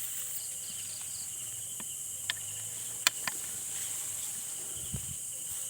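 Steady, high-pitched chorus of night insects, with a few sharp clicks or knocks in the middle; the loudest click comes about three seconds in.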